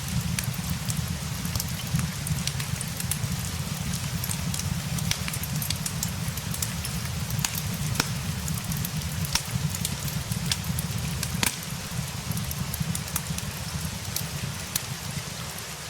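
Fireplace crackling, with irregular sharp pops and snaps over a steady hiss of rain and a low rumble.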